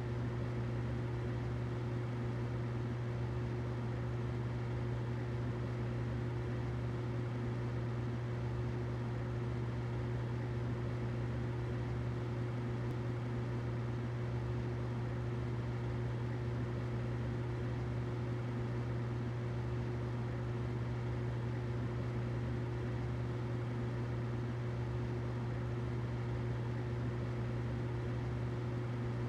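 Humidifier running continuously: a steady low hum with a fainter higher tone and an even hiss over it, unchanging throughout.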